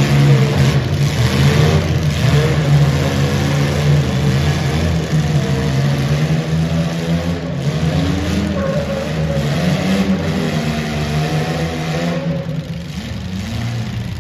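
Several welded compact demolition-derby cars' engines running and revving at once, their pitches rising and falling against one another.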